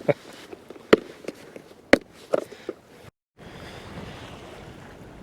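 A few sharp knocks, roughly a second apart, over a light background hiss. After a brief dropout, a steady hiss of wind and water noise.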